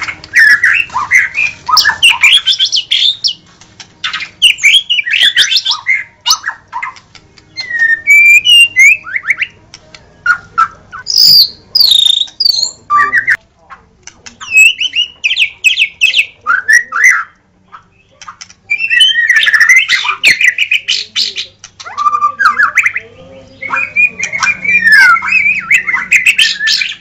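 White-rumped shama (murai batu) singing: loud, varied phrases of quick whistled notes that glide up and down, in bursts separated by short pauses.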